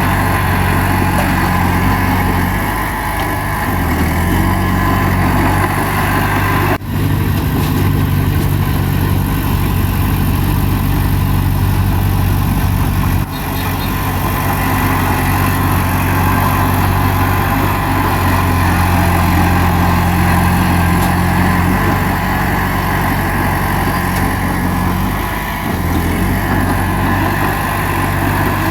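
Heavy diesel engine of a crawler bulldozer running under work, its pitch shifting a little as the load changes. The sound drops out briefly twice, about 7 and 13 seconds in.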